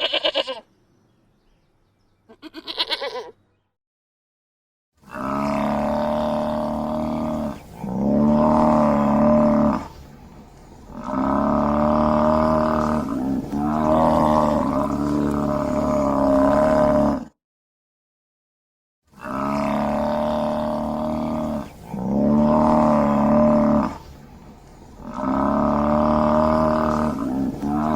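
Two short high-pitched animal calls at the start, then a donkey braying: long, loud hee-haw calls in back-to-back alternating strokes, breaking off for a couple of seconds about two-thirds of the way through before braying again.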